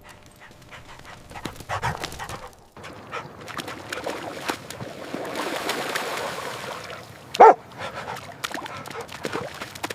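Puppies playing and scuffling, with small whimpers and rustling, and one short, loud bark about seven and a half seconds in.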